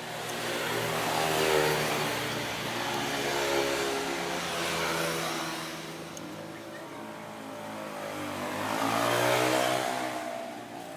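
Engines of passing road vehicles, several going by one after another, each swelling and fading with a rise and fall in pitch.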